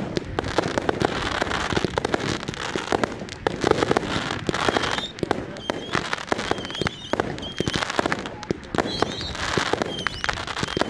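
Aerial fireworks bursting in quick succession: a dense, continuous run of bangs and crackling.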